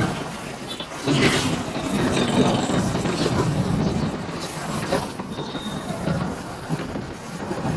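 Road noise from riding a motorcycle: a steady rumbling, rushing noise of engine, tyres and wind, rising and falling irregularly.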